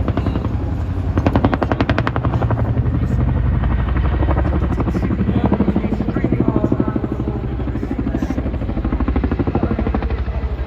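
Boeing CH-47 Chinook tandem-rotor helicopter flying by, its rotor blades making a loud, rapid chopping beat over a deep low rumble; the beat swells and fades as it passes.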